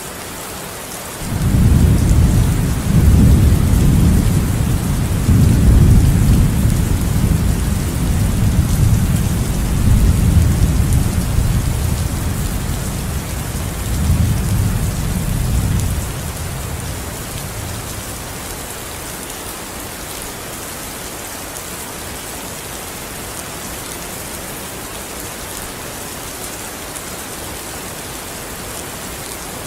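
Steady heavy rain falling, with a long roll of thunder that starts about a second in, rumbles for around fifteen seconds and fades away. Another thunder rumble begins right at the end.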